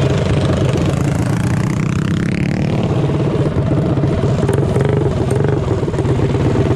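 Small single-cylinder four-stroke minibike engines running hard in a flat-track race, a steady loud drone with one engine's pitch dropping about two seconds in as it passes or backs off.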